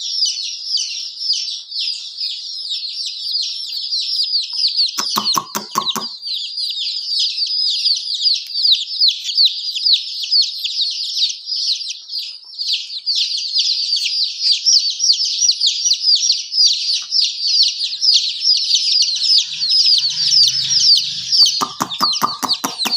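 A brood of baby chicks peeping nonstop, many high chirps overlapping. A lower pulsed clucking call cuts in briefly twice, about five seconds in and near the end.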